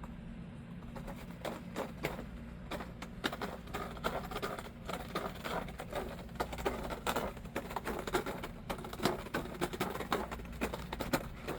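Cats eating dry food: rapid, irregular crunching and clicking that starts about a second in, over a steady low hum.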